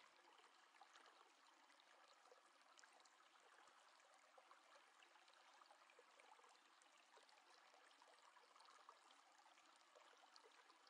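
Near silence: a faint steady hiss of room tone with a few tiny ticks.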